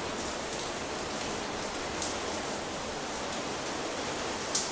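Steady rain falling on a lawn and a wet stone-tiled path, with a few sharper drop ticks, the loudest just before the end.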